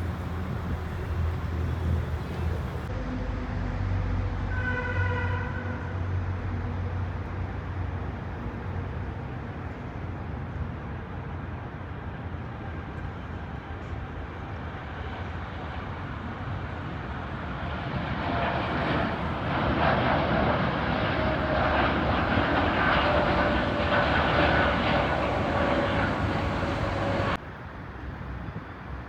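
Jet airliner engines running with a steady rumble that swells louder about two-thirds of the way through, carrying a slowly falling whine, then cuts off abruptly near the end.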